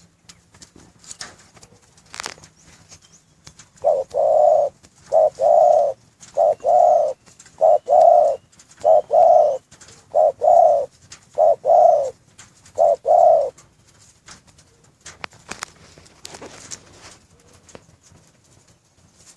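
Spotted dove cooing: a run of low, paired coo notes repeated steadily for about nine seconds, starting about four seconds in. Faint scattered clicks and taps sound before and after.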